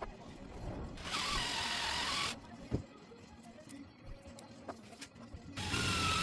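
A small electric power tool's motor running in two bursts, one about a second in lasting just over a second and another starting near the end, each with a steady high whine. Light clicks and knocks come between the bursts.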